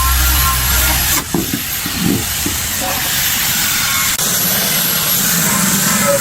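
A loud, steady hissing rush. It changes abruptly about a second in and again about four seconds in.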